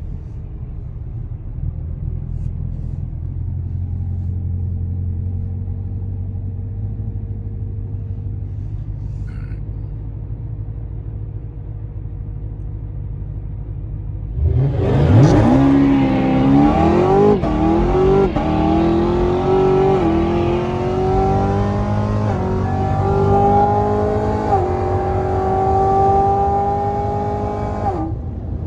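Car engine running low and steady, then about halfway through going to full throttle in a hard acceleration: the engine note climbs through several upshifts, each marked by a brief dip in pitch, and cuts off near the end.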